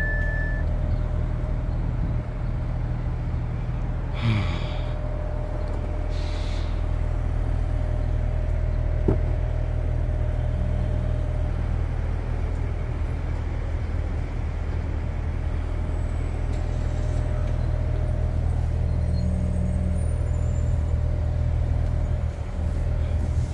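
Steady low rumble of the Haval H6 GT's engine idling while the car stands parked, with a couple of brief rustles about four and six seconds in.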